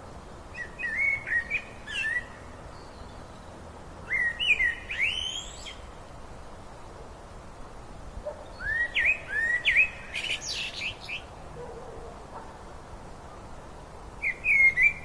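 A songbird singing in four short bursts of quick chirping, sweeping notes, over a steady low rushing of river water.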